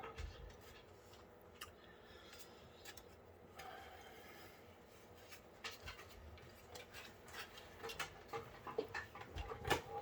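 Power supply cables being handled and plugged in: light rustling with scattered sharp clicks of plastic connectors, the clicks coming more often near the end.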